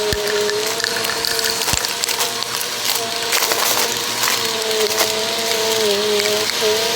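Bissell vacuum cleaner running, its motor whine wavering in pitch, with dense crackling and clicking as foil confetti and debris rattle up into it, and a couple of dull knocks.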